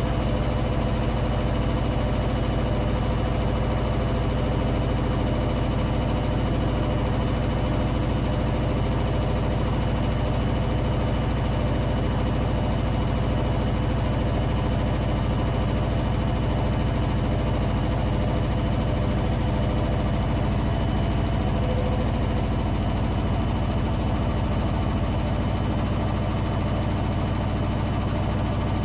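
Hoover New Wave Plus 5 WA1300 washing machine on its final spin, the drum and motor running at a steady speed with a constant low hum and a faint high whine.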